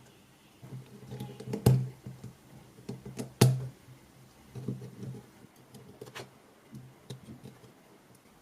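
A series of sharp clicks and knocks of hard objects being handled and set down, the two loudest about a second and a half apart, over low rumbling handling noise.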